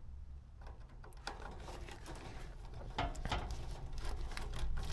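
Small clicks and rustles of hands handling and connecting furnace control wires, more frequent and sharper in the second half, over a steady low hum.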